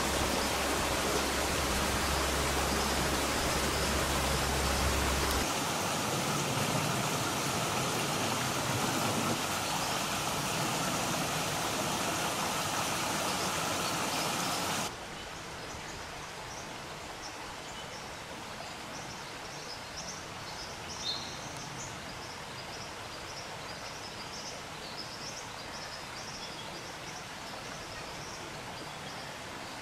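Steady rushing noise, loud and even, that cuts off abruptly about halfway through. After it comes a quieter bush background with faint, scattered high bird chirps.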